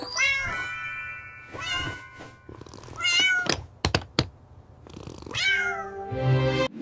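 Cartoon cat meows, about four of them, with a few short knocks between them and steady held tones near the start and near the end.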